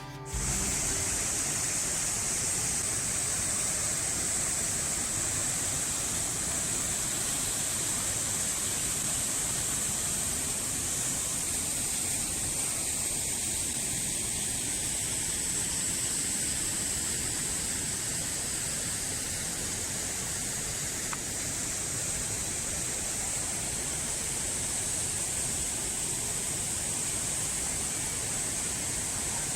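Waterfall rushing: a steady, unbroken roar of falling water with a strong hiss of spray.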